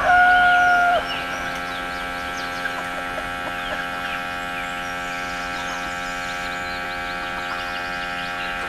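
Steady hum with many small birds chirping; a rooster's crow ends on a long held note about a second in.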